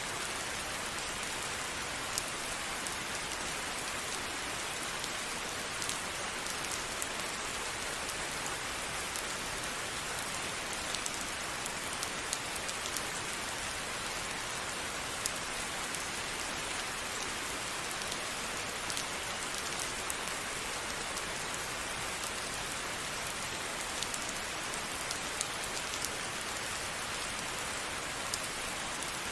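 Steady rainfall, an even hiss with many small drops ticking on a surface.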